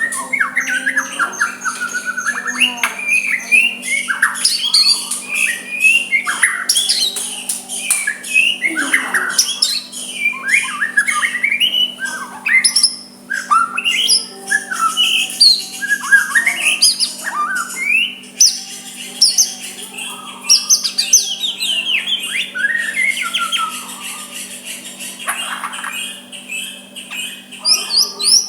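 White-rumped shama singing a continuous, varied song of clear whistles, rising and falling glides and harsh chattering notes, over a faint steady low hum.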